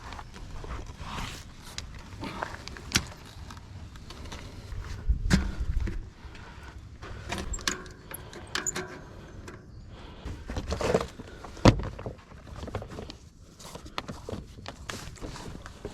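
Mountain bike clattering over rough trail: irregular rattles, clicks and knocks from the bike's frame, chain and fork, over a low rumble from the tyres and wind on the microphone. The hardest knocks come about a third of the way in and again about three quarters through.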